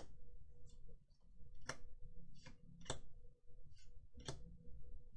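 Magic: The Gathering trading cards being handled and flicked through by hand: irregular short sharp clicks, about two a second, over a faint steady hum.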